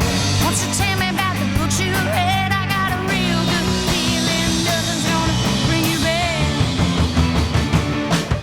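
Rock band playing a song live: a loud, full band with drums and wavering sung or bent-guitar lines over a steady low end.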